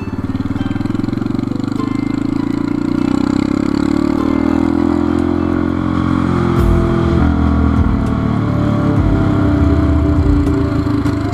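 Motorcycle engine pulling under acceleration, its pitch rising over the first few seconds and then holding steady. An uneven low rumble joins about six and a half seconds in.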